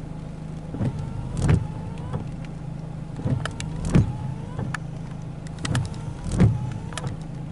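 Car engine idling as a steady low hum, with a series of light taps and knocks; the strongest come about every two and a half seconds.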